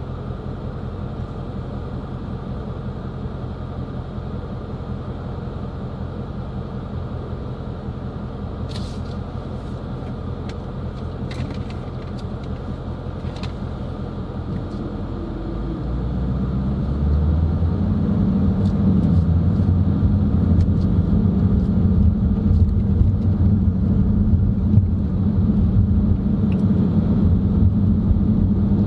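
Car driving, heard from inside the cabin: a steady low rumble of road and engine noise that grows louder about halfway through.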